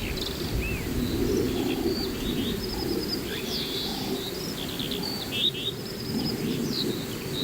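Several birds chirping and trilling in quick, short calls over a low steady background rumble.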